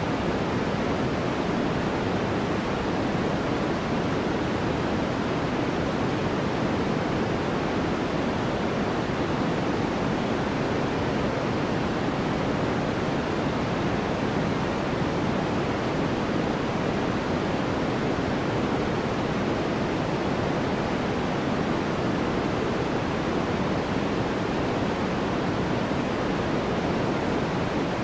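Continuous white noise for sleep: an even, unchanging hiss, fuller in the low-middle range with a softened top. There are no changes or events in it.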